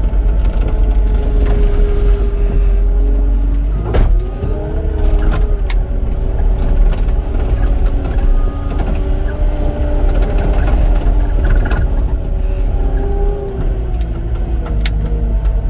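Excavator's diesel engine and hydraulics working under load while it digs rock, the pitch rising and falling as the hydraulics are worked. Sharp knocks of the bucket striking rock, the loudest about four seconds in.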